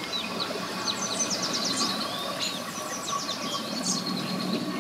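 Several birds chirping and trilling in quick, repeated notes over a steady low hum.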